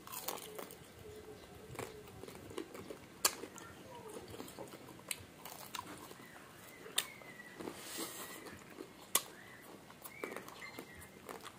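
People chewing and crunching crispy deep-fried pork knuckle close to the microphone, with scattered sharp crunches and mouth clicks.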